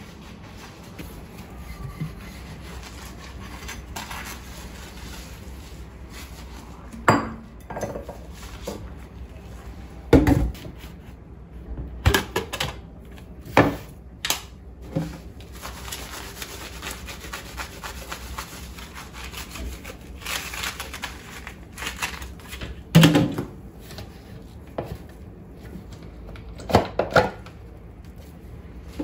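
Kitchen work: scattered knocks and clatters of dishes and utensils being handled and set down, with a stretch of rubbing or scrubbing in the middle, over a steady low hum.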